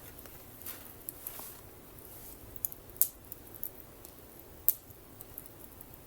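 Wood campfire crackling: scattered small snaps and pops over a low steady hiss, with two sharp louder pops about three seconds in and again near five seconds.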